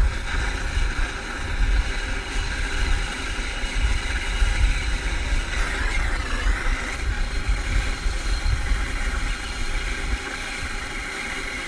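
Handheld gas torch burning with a steady rushing roar and a strong low rumble, heating a seized bolt on a mower deck spindle to free it. The low rumble drops away about ten seconds in.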